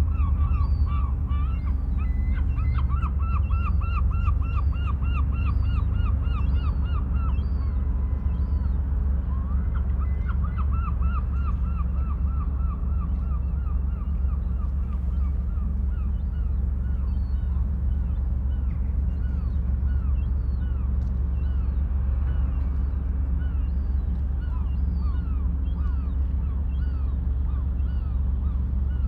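Birds calling in long runs of quick, repeated, hooked notes, several a second, over a steady low rumble of the sea.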